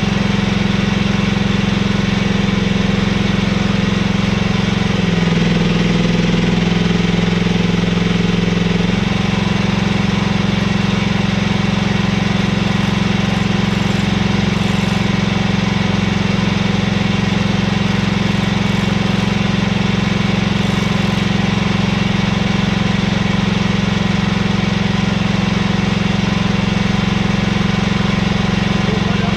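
Mini excavator engine running steadily while digging. Its note drops lower for about four seconds, starting about five seconds in, then settles back.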